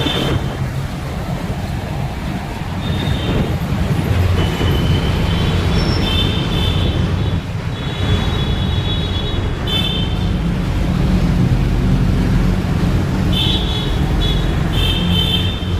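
Steady road-traffic rumble under a bridge, with short bursts of high-pitched bird chirping over it that come and go several times.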